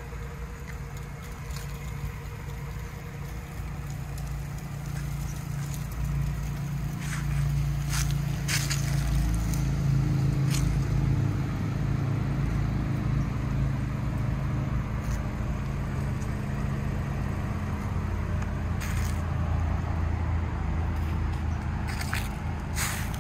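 An Acura Integra Type R's 1.8-litre four-cylinder engine idling steadily, growing louder after about six seconds. Dry leaves crunch underfoot a few times.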